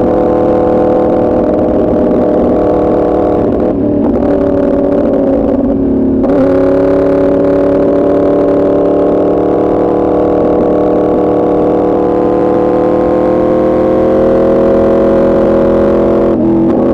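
A Yamaha R1's crossplane inline-four running through an Arrow exhaust while riding. The engine eases off for a couple of seconds about four seconds in, comes back on at a steady drone and climbs slowly in pitch. Near the end there is a brief cut and a drop in pitch, an upshift.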